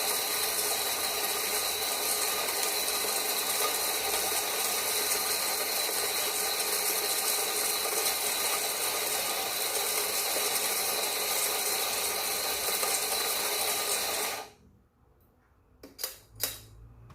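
Electric burr coffee grinder grinding espresso beans with a steady mechanical grinding noise that cuts off abruptly about fourteen seconds in. A few sharp knocks follow near the end.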